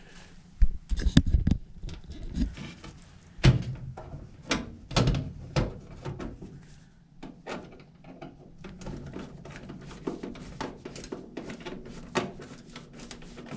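Knocks and thuds of a furnace's sheet-metal access door and filter being fitted in place, with a cluster of heavy bangs early, more around the middle, then a string of lighter clicks and taps.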